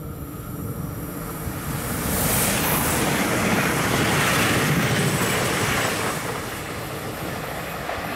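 Two coupled DB Class 442 (Bombardier Talent 2) electric multiple units passing close by. The rumble and rush of wheels on rail builds over the first couple of seconds, stays loudest for about four seconds, then eases off as the train moves away.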